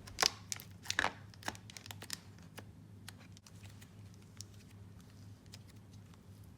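Slime being handled by hand, giving small sticky crackles and clicks, a few louder ones in the first couple of seconds, then fainter and sparser.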